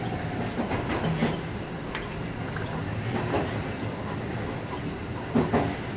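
Keihan electric commuter train running, heard from inside the car: a steady rumble of wheels and motors with scattered short knocks, two louder ones close together near the end.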